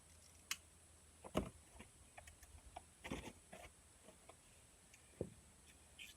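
A handful of scattered light clicks and knocks as tools and metal parts are handled, about five in all, the loudest about a second and a half in.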